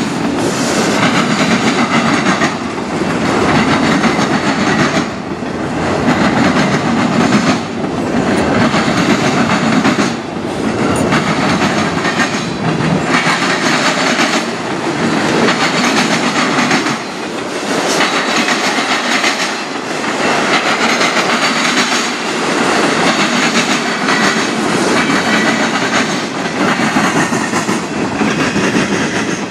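Freight train cars (autoracks, then tank cars) rolling past close by: a steady rumble and clatter of steel wheels on the rails. The noise dips briefly about every two and a half seconds.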